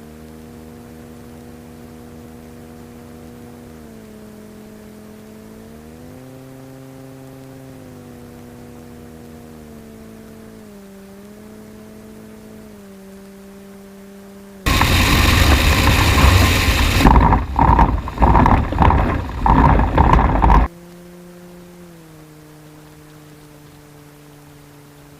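Sting light sport airplane's engine and propeller droning at low power on final approach, the pitch stepping up and down with throttle changes. About 15 seconds in, touchdown on rough ground brings about six seconds of loud, jolting rumble and banging from a hard landing that shakes the airframe, after which the engine drone returns lower and falling as the airplane rolls out.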